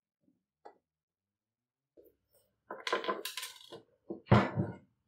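Small metal parts clinking and clattering against a hard surface: a few light clicks, a run of rattling clinks past the middle, and a louder clatter near the end.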